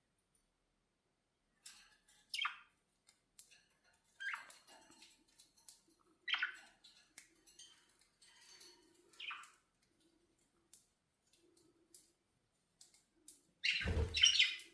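Budgerigars calling: a few separate short chirps that drop in pitch, every two seconds or so, with soft chatter between them. Near the end comes a louder burst with a low thump.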